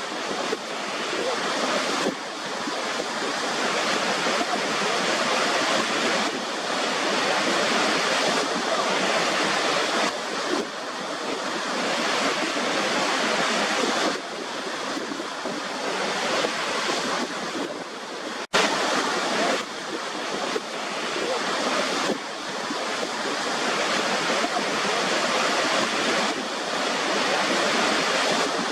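Waterfall water rushing in a steady, full hiss that swells and eases slightly. It breaks off for an instant about eighteen seconds in, then carries on.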